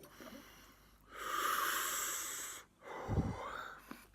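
A man breathing hard through his mouth to cool a tongue burning from very spicy chili noodles. There is one long, loud hissing breath about a second in, then a shorter puff of breath near the end.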